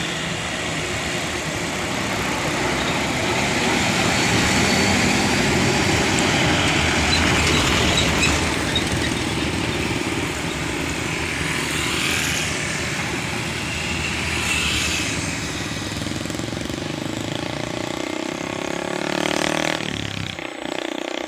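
Truck traffic on a road: steady engine and tyre noise, swelling a couple of times as vehicles go by.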